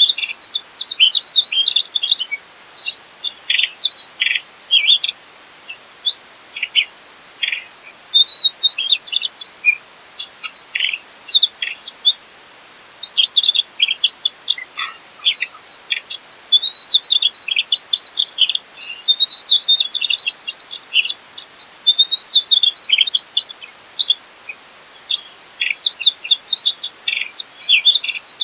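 Mugimaki flycatcher singing a rapid, near-continuous twittering song of high chirps and short trills, broken by a few brief pauses.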